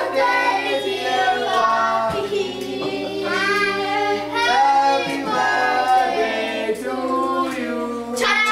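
Several voices, children's and women's among them, singing together.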